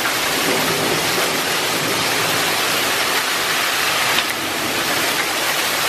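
Torrential rain pouring down in a loud, steady rush.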